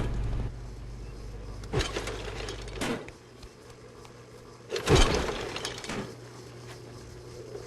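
A series of heavy crashing impacts, about four, each with a short ringing tail; the loudest comes about five seconds in. A low steady hum runs beneath them for the first few seconds and then drops away.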